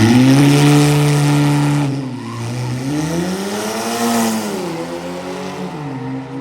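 A car's engine at full throttle launching down a drag strip. The revs climb and hold, then drop about two seconds in and again about five seconds in as it shifts up, and the sound grows a little fainter as the car pulls away.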